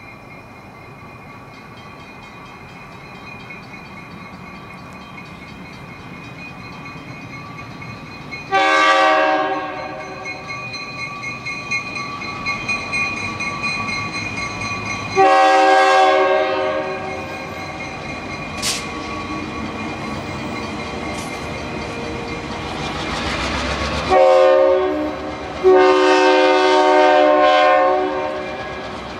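Train approaching, its rumble growing louder, while the locomotive sounds its multi-note air horn four times. The first three blasts are short, a second or so each, and the last is held about two and a half seconds.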